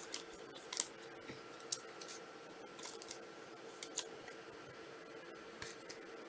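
Faint scattered clicks and light rustles of trading cards and packs being handled, a handful of sharp ticks a second or so apart, over a faint steady hum.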